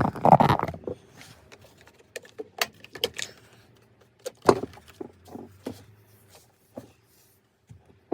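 Handling noise: a short clatter at the start, then scattered clicks and knocks of tools and parts being handled, the loudest about four and a half seconds in.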